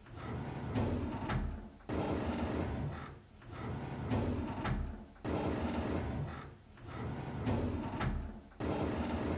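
A drawer being pulled open over and over, its runners sliding and rumbling. Each pull starts abruptly and the slide fades out again, repeating about every three and a half seconds.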